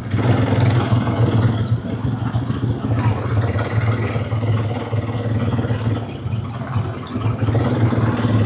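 Quad bike engine idling, a steady low drone that holds one pitch with no revving.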